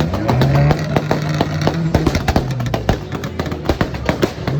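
Subaru flat-four engine's exhaust popping and crackling rapidly and irregularly, over a steady engine note that climbs in the first second and falls away about two seconds in.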